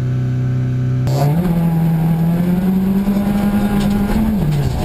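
Peugeot 206 1.6 16v rally car's four-cylinder engine held at steady high revs at the start line, then launching about a second in: revs climb with a rush of tyre and gravel noise, and fall quickly near the end as it changes up a gear. Heard from inside the cabin.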